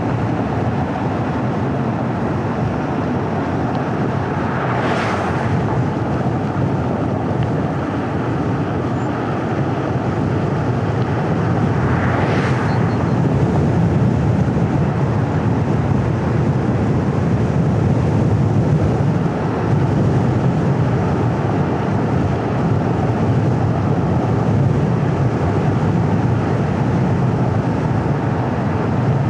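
Car driving along a paved road: steady tyre and engine noise. Two brief whooshes, about five and twelve seconds in, are most likely other vehicles passing.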